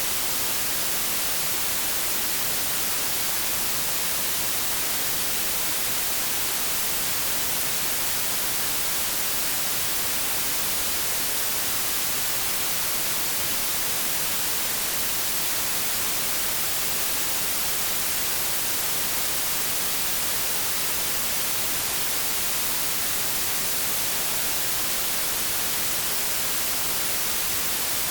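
White noise: a steady, unchanging hiss, strongest in the high frequencies.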